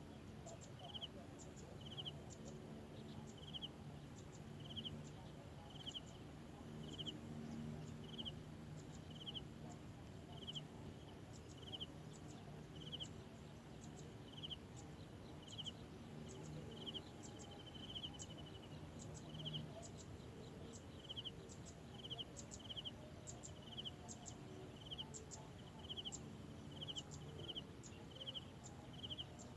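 A short, high chirp repeated steadily a little more than once a second, over a faint low background rumble.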